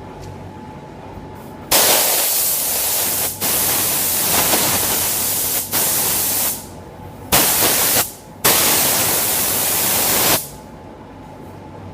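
Compressed-air paint spray gun hissing in a series of bursts as the trigger is pulled and released. The bursts start about two seconds in, the longest about two seconds each, and each starts and stops abruptly over a steady low hum.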